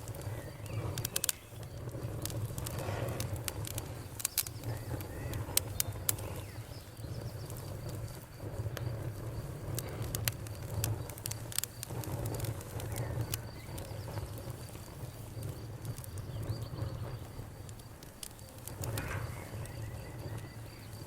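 Bonfire crackling, with irregular sharp pops and snaps over a low steady rumble, while crickets chirp in a thin, steady high pitch behind it.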